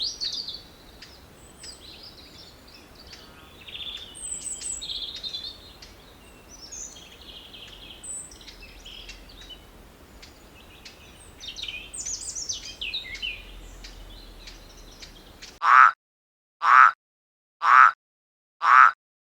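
Songbirds chirping and trilling in quick, high phrases over faint outdoor background noise. About fifteen seconds in, the birdsong cuts off into dead silence, and the same short sound repeats about once a second.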